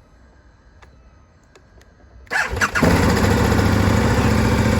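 A few faint clicks, then a KTM 1290 Super Adventure S's 1301 cc V-twin with a Leo Vince aftermarket exhaust cranks and catches about two seconds in, settling at once into a steady idle.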